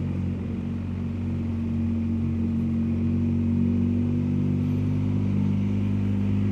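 BMW R1250GSA's boxer twin engine running steadily while the bike cruises, with road noise. The engine note shifts slightly about four seconds in.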